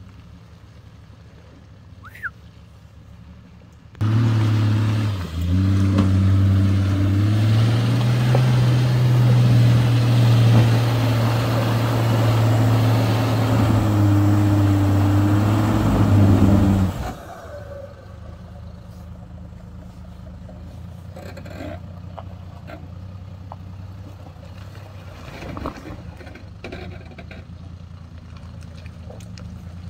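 A motor running loudly with a steady pitch that rises slightly, starting suddenly about four seconds in and cutting off suddenly some thirteen seconds later.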